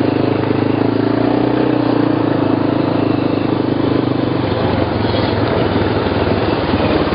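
ATV (quad bike) engine running steadily, its note turning rougher a little past halfway.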